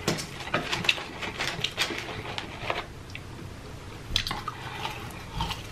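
Close-miked eating of French fries: irregular wet mouth clicks and chewing, with a louder cluster about four seconds in.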